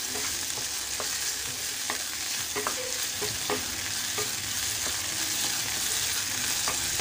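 Small pieces of chicken sizzling in oil in a frying pan over a high flame. A spatula stirs them, scraping and tapping the pan at irregular intervals.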